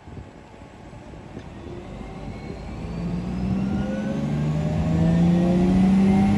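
A vehicle engine growing steadily louder, its pitch rising slowly and its hum strongest in the last couple of seconds.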